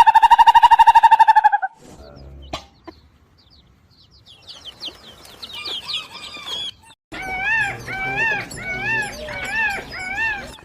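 Animal calls. A loud, rapidly pulsing buzzing tone stops about a second and a half in. Scattered high chirps follow, then a run of about six repeated rising-and-falling calls in the second half.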